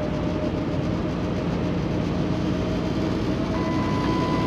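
Steady cab noise of a Kenworth T680 semi truck on the move: its Paccar MX-13 diesel engine drone and tyre noise. A steady electronic beep starts near the end.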